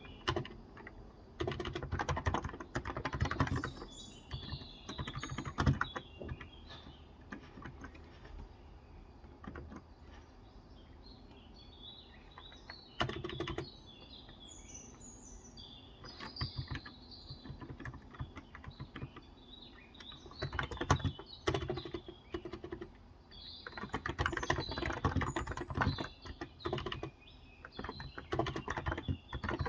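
Typing in bursts on a Cox Endeavour electrostatic capacitive (contactless) 35 g tenkeyless keyboard, with pauses of several seconds between runs of keystrokes. Small birds chirp in the background.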